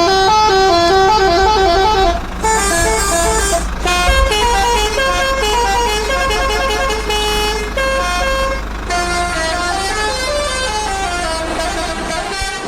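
A musical vehicle horn playing a quick tune of stepping notes over a steady low engine rumble; it stops abruptly at the end.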